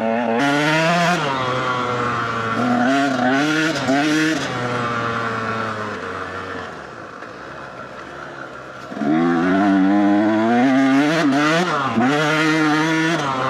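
Dirt bike engine under a rider's throttle, its pitch climbing and dropping repeatedly as it revs up and shifts. The engine eases off about six seconds in, goes quieter for a few seconds, then comes back on the throttle about nine seconds in.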